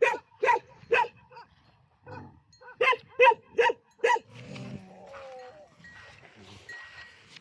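A dog barking in quick runs, three barks and then, after a pause of about two seconds, four more, two or three barks a second.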